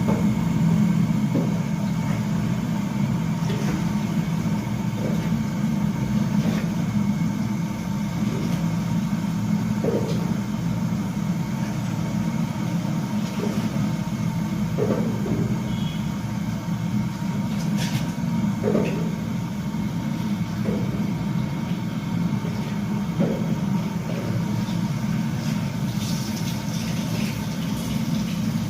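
Washing machine running steadily with a low motor hum, agitating the clothes in detergent water with a soft swish every two seconds or so.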